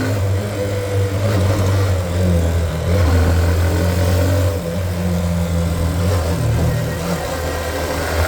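Hero Xtreme 125R's single-cylinder engine running under load as the motorcycle climbs, its note dipping and picking up again a few times with the throttle.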